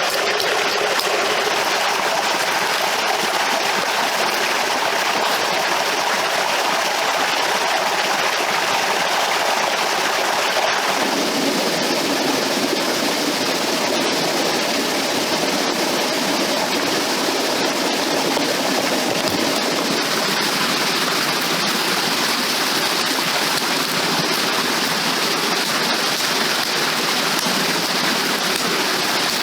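Steady rushing water, like a flowing stream, with an abrupt change in its tone about eleven seconds in and again about twenty seconds in.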